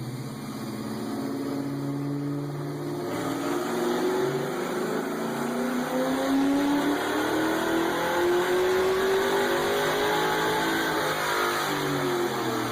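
Car engine under acceleration, its pitch climbing steadily for several seconds and getting louder, then easing off near the end.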